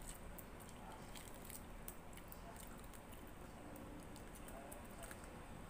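A person quietly chewing food with the mouth closed, with faint small clicks scattered throughout.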